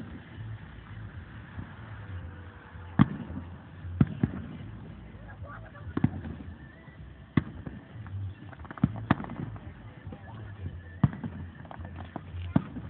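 Aerial firework shells bursting: about nine sharp bangs at irregular intervals of one to two seconds, some in quick pairs, over a steady low hum.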